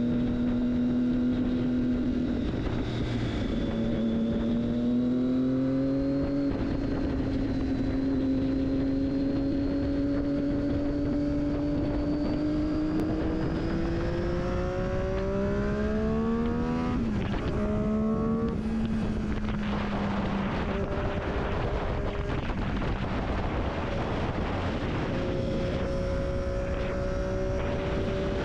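Triumph Daytona 675's inline three-cylinder engine through an Akrapovic exhaust while riding, with wind rush. The engine note climbs steadily under acceleration, drops sharply about two-thirds of the way through, then carries on at a lower, steadier pitch.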